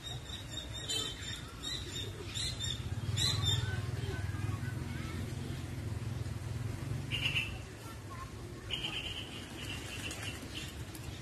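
Birds chirping: a quick series of short high chirps over the first few seconds, then a few longer calls later on. A low steady rumble runs underneath for most of the first half.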